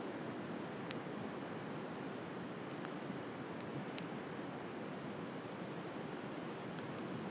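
Wood bonfire crackling, with a few sharp pops (the loudest about a second in and about four seconds in), over a steady wash of sea surf.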